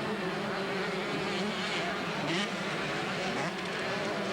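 Two-stroke motocross bike engines running at racing speed, a continuous buzzing drone whose pitch wavers up and down as the throttles open and close.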